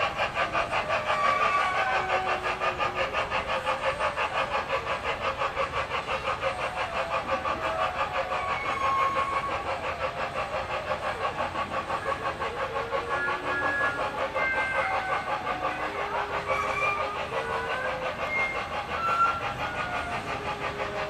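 A train running, with a steady, rapid rhythmic clatter.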